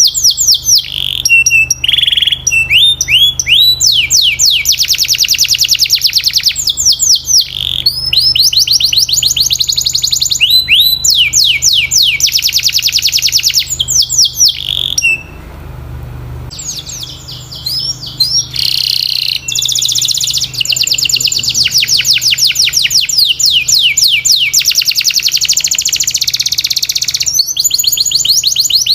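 Domestic canary singing: long fast trills of rapidly repeated falling notes, phrase after phrase, with a brief pause about halfway through.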